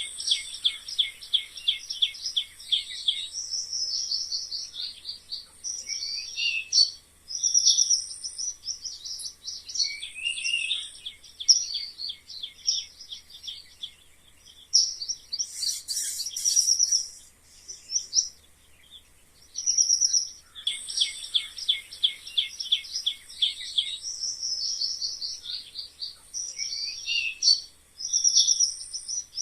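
Mice squeaking: dense runs of rapid, high-pitched chirping squeaks with short pauses between them, repeating through the whole stretch.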